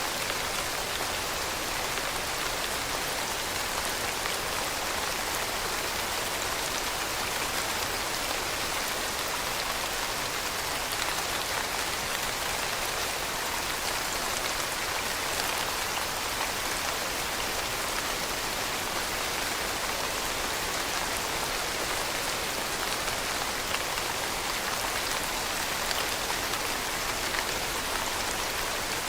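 Steady rainfall, an even hiss of many drops falling on a surface with fine scattered patter, unchanging throughout.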